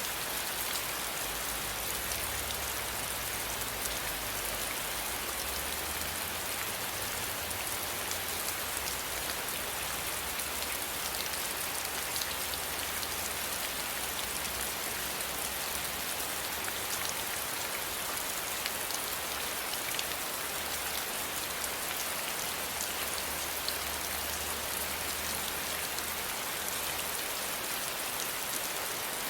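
Steady rain falling, an even hiss with fine scattered drop ticks and a faint low rumble underneath.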